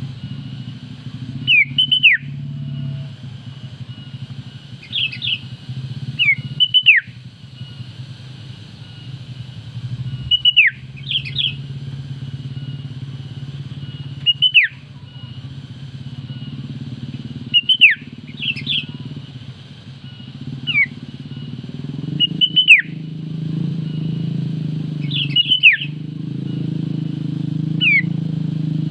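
Female sooty-headed bulbul (kutilang) calling: short, quick downward-slurred whistled notes, singly or in quick pairs, every two to four seconds. A steady low engine hum runs underneath and grows louder after about twenty seconds.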